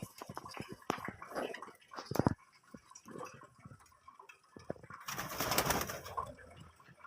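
Small pet cage birds calling, with many short clicks in the first half and a louder rush of sound about five seconds in.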